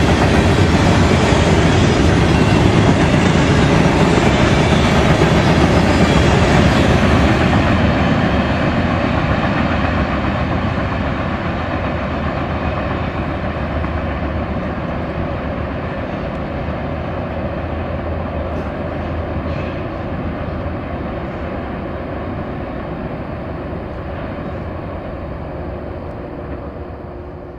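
Loaded covered hopper cars of a freight train rolling past on steel rails, a steady noise of wheels on track that grows gradually fainter from about a quarter of the way in as the train draws away.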